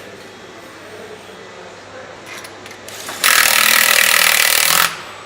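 A power tool runs in one loud, hissing burst of about a second and a half, starting about three seconds in and stopping abruptly. A few short clicks come just before it.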